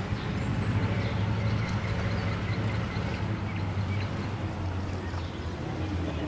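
Engine of an open WWII-era military car running at low speed as it drives slowly, a steady low hum that drops away near the end.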